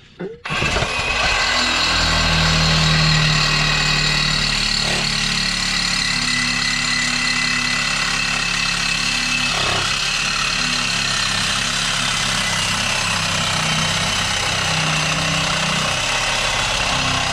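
Power saw cutting through steel exhaust pipe: the motor starts suddenly about half a second in and runs steadily under load as the blade cuts the pipe.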